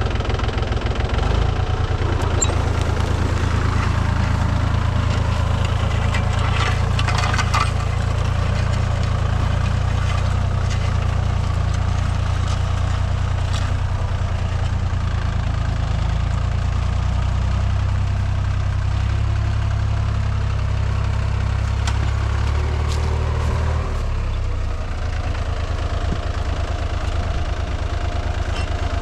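Diesel engine of a 39 hp Mahindra Sarpanch 275 DI TU tractor running steadily while pulling a plough. A little over three-quarters of the way in, the deepest part of the engine note falls away and the sound gets slightly quieter.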